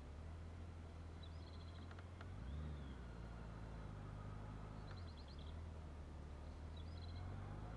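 Honda Gold Wing motorcycle engine running low and steady as the bike rides slowly along, its pitch shifting twice. A bird chirps briefly three times.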